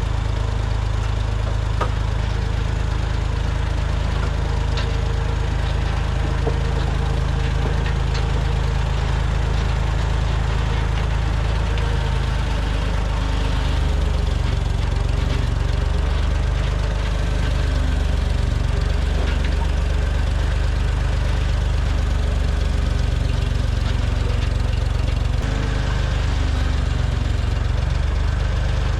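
A low-pitched engine running steadily at an even speed for the whole stretch, with a heavy low rumble.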